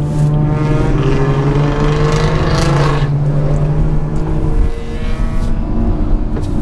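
Inline-six car engines: one accelerates with its pitch rising for about the first three seconds over a steady engine drone, and the drone drops away about four and a half seconds in.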